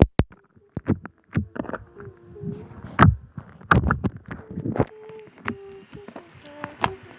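Homemade borax slime being poked and squished by fingers: irregular wet pops, clicks and squelches, the loudest right at the start and around three to four seconds in.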